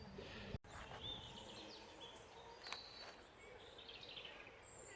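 Quiet lakeside ambience with a few faint, scattered bird chirps.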